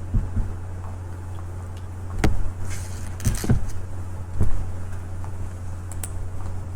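Steady low hum with a handful of scattered knocks and brushing noises.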